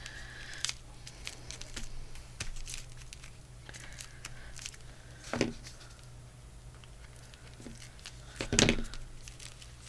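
Paper and craft pieces being handled on a collage: scattered crinkling and rustling, with two louder knocks, about five and a half and eight and a half seconds in.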